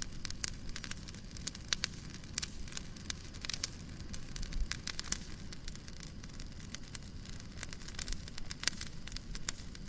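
Wood fire crackling: scattered sharp pops and snaps over a low, steady rumble.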